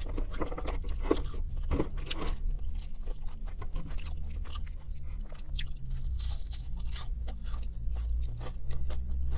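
Close-up mouth sounds of chewing McDonald's chicken nuggets: repeated crisp crunches of the fried breading with wet chewing in between, over a low steady hum.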